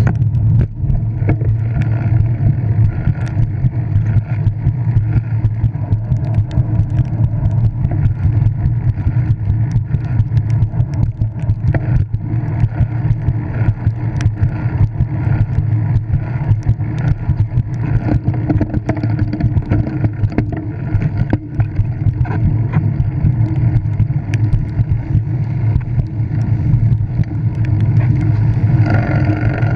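Steady wind rumble on the microphone and road noise from a bicycle ridden on a wet road, with scattered small clicks and rattles.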